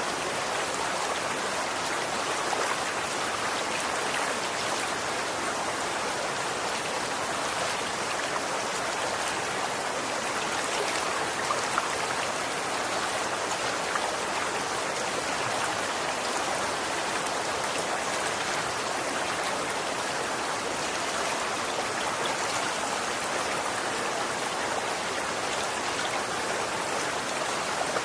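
Running water flowing and splashing steadily, a continuous even rush with small splashes throughout.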